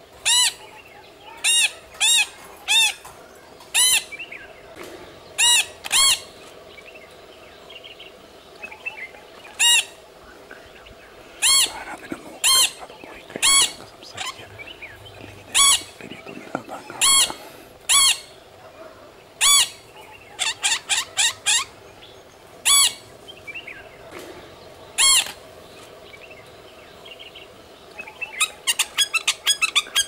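Scimitar babbler calling: short, clear whistled notes, each rising then falling in pitch, given singly or in pairs at irregular gaps. A quicker run of notes comes about two-thirds through, and a fast series starts near the end.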